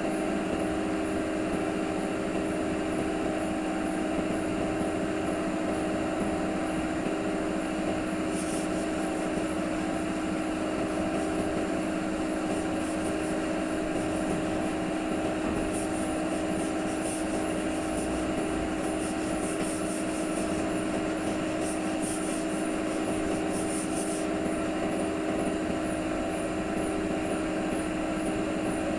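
A motor-driven machine running steadily with a constant hum, joined from about a third of the way in until near the end by an intermittent high crackling hiss.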